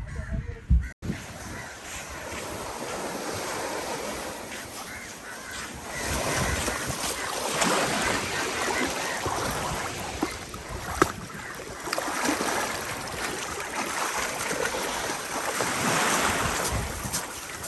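Sea waves and wind, with the wind buffeting the microphone in uneven surges. There is a single sharp tick about two-thirds of the way through.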